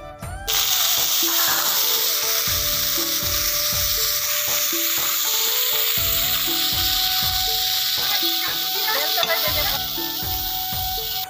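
Cauliflower florets hitting hot oil in a metal wok: a loud sizzle starts suddenly about half a second in and holds steady. Near the end a metal spatula scrapes and stirs them, and the sizzle eases off.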